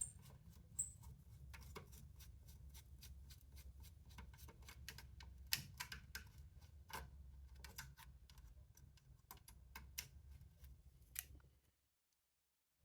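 Faint, irregular clicks and taps of small metal hinge hardware being handled and removed, over a steady low hum. The sound cuts out to silence near the end.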